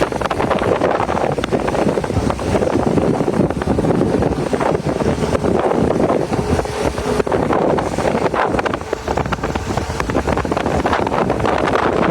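Wind buffeting the microphone over a steady vehicle rumble, with gusty crackling.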